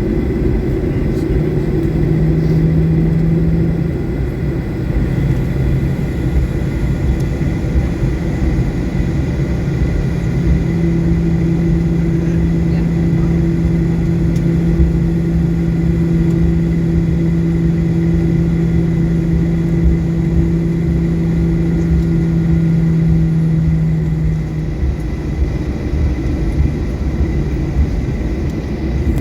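Cabin noise of a Boeing 737-800 on the ground after landing: a steady low rumble, with a steady engine hum that comes in at about ten seconds and drops away at about twenty-four seconds.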